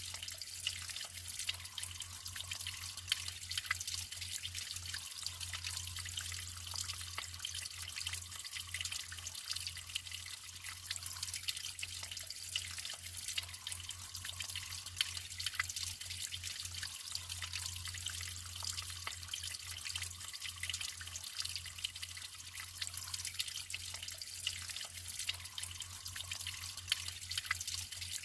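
Natural water flowing and trickling steadily, with many small splashes and drips in a continuous hiss. A faint steady low hum runs underneath.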